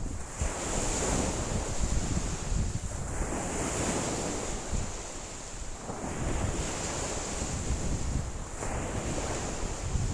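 Lake waves breaking and washing on the shore in strong wind, surging again and again every few seconds, with a low rumble of wind buffeting the microphone.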